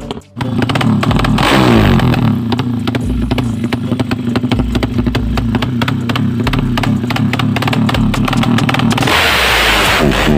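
Tuned Yamaha MX racing motorcycle engine running loud and rough at high revs, the exhaust crackling with rapid firing pulses. It drops out for an instant at the start, picks up revs about a second and a half in, holds steady, and turns harsher and louder near the end as it is revved harder.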